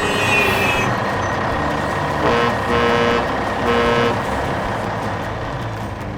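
A vehicle running steadily, with three short horn toots in quick succession a little over two seconds in.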